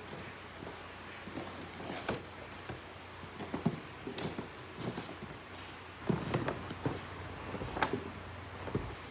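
Handling noises: scattered light clicks, knocks and rustles of things being moved about, busiest about six to seven seconds in, over a faint steady hum.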